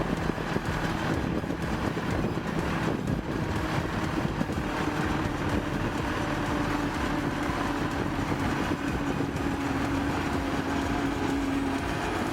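Tractor engine running steadily, with a faint steady tone held through it.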